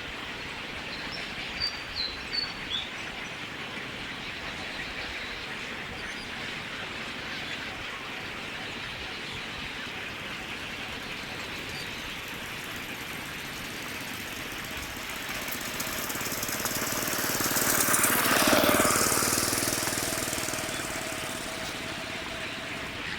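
A motor vehicle passing by, building up from about 15 s, loudest near 18 s, then fading away over steady outdoor background noise. A few short bird chirps sound about two seconds in.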